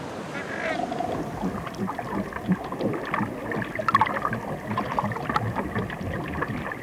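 Underwater sea noise heard through a hydrophone: a dense crackling hiss with bubbling and clicks, and a brief rising squeak about half a second in.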